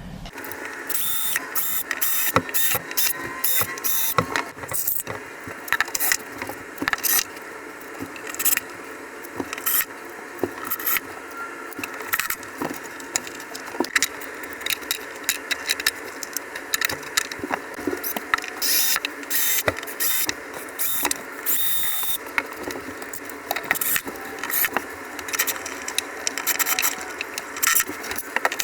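Irregular sharp clicks, knocks and small rattles of hand work as small straps are fastened to hold plumbing lines against a wall.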